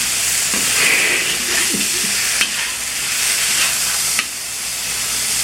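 Food frying in a hot pan: a steady sizzle, with two short knocks of a utensil about two and a half and four seconds in.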